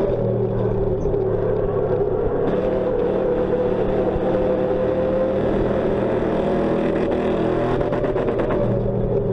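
Ford Crown Victoria race car's V8 engine running on track, heard from inside the stripped cabin. The engine note grows brighter about two and a half seconds in and dulls again near the end.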